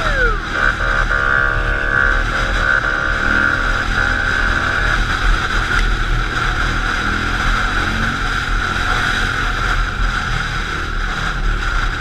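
Vehicle engine droning under steady wind noise. A siren gives falling yelps at the start, then a steady multi-tone blare that stops about five seconds in.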